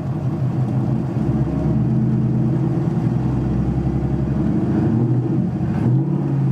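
Ford Mustang GT's 5.0 V8 running just off idle and being slowly brought up in revs, heard from inside the cabin.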